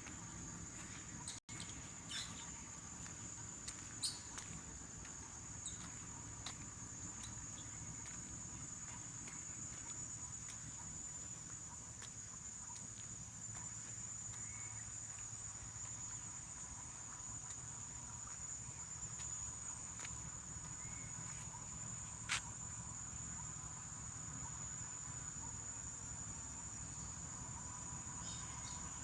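Insects singing in one continuous, steady, high-pitched drone. A few short sharp ticks stand out, loudest about four seconds in and again about twenty-two seconds in.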